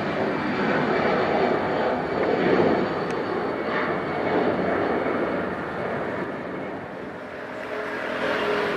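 Jet airliner's engines passing close by: a loud, even rushing noise that swells about two seconds in, eases off, then builds again near the end.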